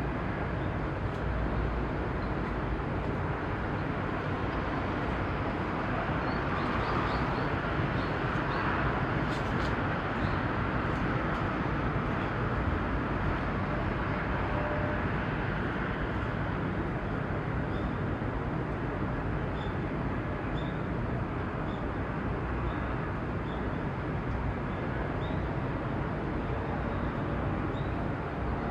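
Steady outdoor harbour ambience: a continuous rumble and wash of noise, swelling a little in the middle, with faint short high chirps now and then.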